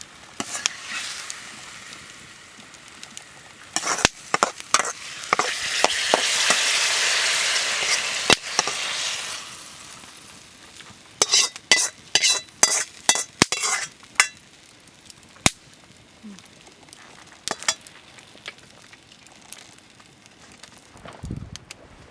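Food sizzling as it is stir-fried in a pan, with the sharp clack and scrape of a cooking utensil against the pan. The sizzle swells loudest in the middle, and a quick run of clatters follows.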